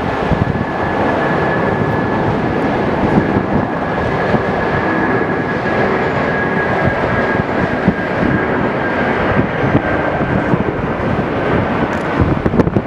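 Jet engines of an Airbus A380 passing, a loud steady rush with a high whine that slowly falls in pitch, buffeted by gusty wind on the microphone.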